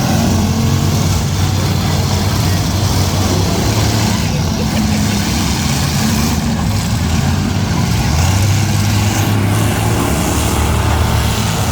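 Several V8 demolition derby cars running and revving together, a loud, continuous engine din with pitch rising and falling a little.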